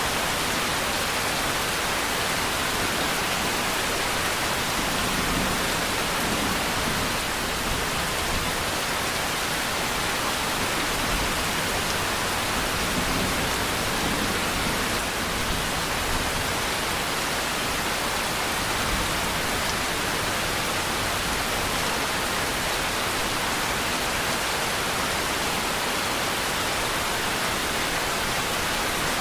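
Steady rain falling, an even unbroken hiss with no thunder or distinct drops standing out.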